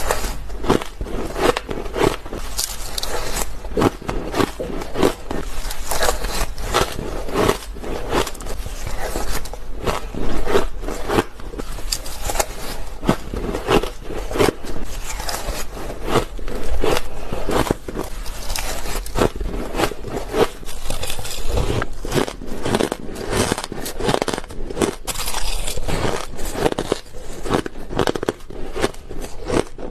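White ice being bitten and chewed up close to the microphone: a rapid, dense run of crisp crunches, several every second.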